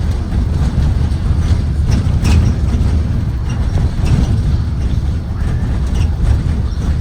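A Blue Bird Vision propane school bus running, a steady low rumble with scattered rattling clicks, the sharpest about two seconds in.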